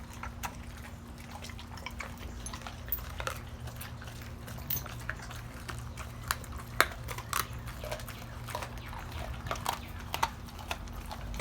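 XL American bully crunching a raw chicken back, the bones cracking in irregular, sharp crunches.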